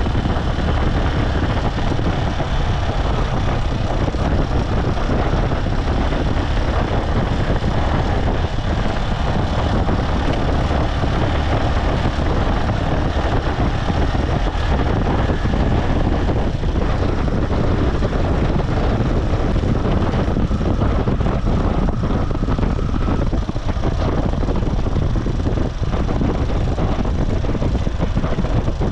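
Motorcycle engine running steadily under way, mixed with wind and road noise from riding.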